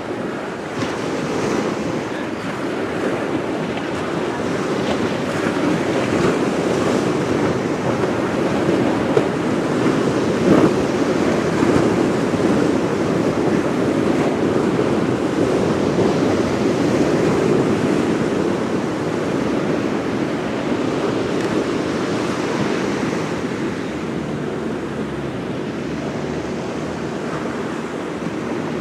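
Waves washing onto the shore, a steady noise that swells a little midway, with wind on the microphone.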